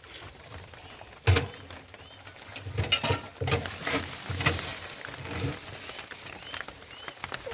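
A sharp knock about a second in, then a run of softer bumps and scuffs.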